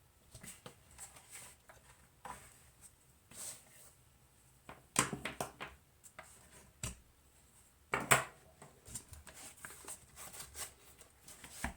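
Handling noise from a Weller TC202 soldering station being picked up and turned over on the bench: scattered light clicks and knocks, the loudest about five and eight seconds in.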